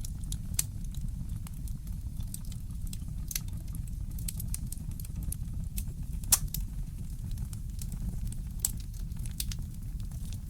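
Wood fire crackling in a fireplace: irregular sharp pops and snaps, the loudest about six seconds in, over a steady low rumble.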